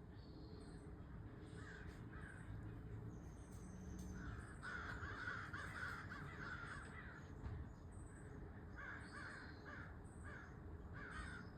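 Faint birds calling: a series of harsh, rough calls, with a longer run of them from about four and a half to seven seconds in, and short higher notes in between.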